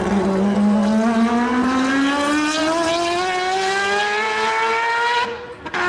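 Historic Formula 1 race car engine accelerating hard, its pitch climbing steadily for about five seconds, then cutting off abruptly near the end.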